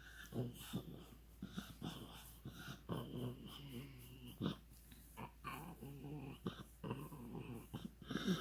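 Pug making a run of short, low, irregular noises one after another, with small clicks in between.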